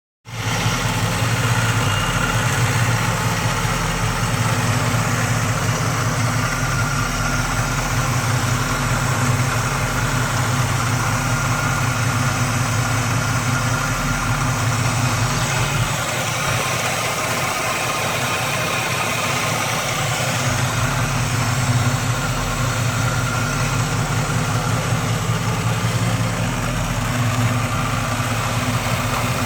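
Chevrolet El Camino engine idling steadily.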